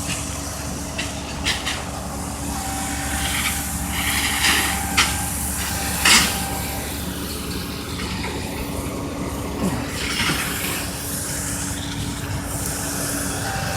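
A vehicle engine idling steadily, with scattered short scrapes and clicks over it.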